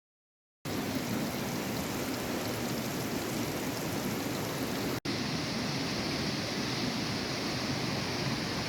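Steady rushing water, starting just under a second in, with a brief dropout about halfway through where the sound cuts and resumes.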